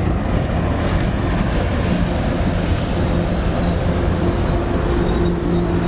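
MBTA commuter rail train's bilevel coaches rolling along the platform as the train pulls in and slows, a steady loud rumble of wheels on rail with a steady low hum. A faint high wheel squeal begins near the end as it brakes to a stop.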